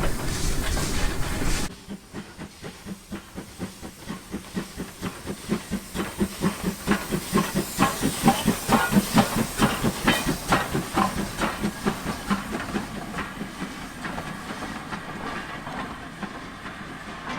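Terrier steam tank locomotive: a hiss of steam that cuts off sharply under two seconds in, then the rhythmic clunking of its coupling rods and exhaust beats as it gets under way. The beats quicken to about four a second and then fade as it draws away.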